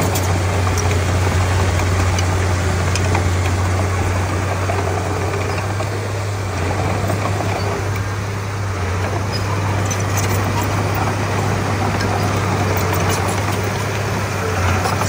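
Komatsu D31P bulldozer's diesel engine running steadily with a strong low hum, easing off briefly about eight seconds in.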